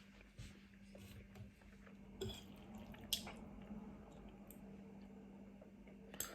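Close-up wet mouth sounds of spicy noodles and rice cakes being chewed, with three sharp clicks about two, three and six seconds in, over a faint steady hum.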